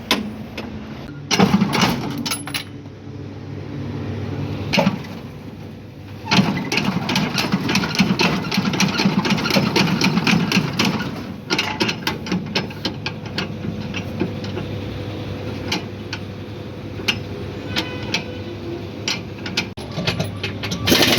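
Engine running with repeated metallic clicks and clanks, and spells of loud rattling: a short one about a second in and a longer one from about six to eleven seconds in.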